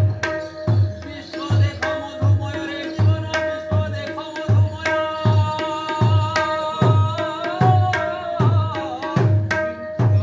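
Mridanga, a two-headed barrel drum, playing a steady rhythm of deep bass strokes a little under two a second, with sharp treble-head strokes ringing at a fixed pitch in between. A voice holds a long, wavering sung note through the middle.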